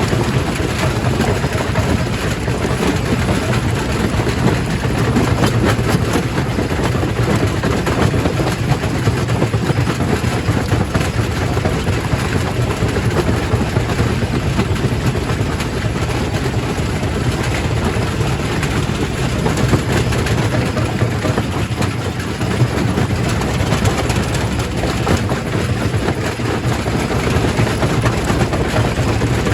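Primary rock crusher running steadily: a continuous low machine drone under a dense clatter of stone being crushed.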